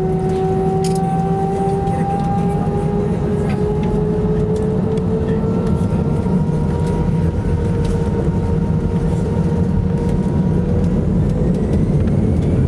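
Airbus A319 cabin noise heard from a window seat: the steady roar of airflow and its CFM56 turbofan engines, with an engine whine that slowly rises in pitch.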